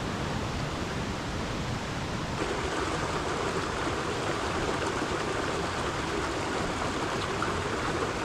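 A brook running high and fast after heavy rain: a steady rush of water that grows a little fuller about two seconds in.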